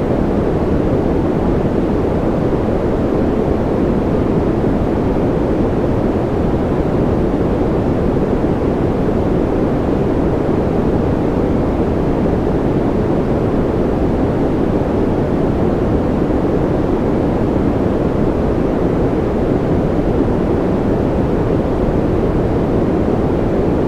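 Steady, electronically generated sleep noise of the kind sold as white noise. It is a deep, even hiss with most of its weight low down and does not change.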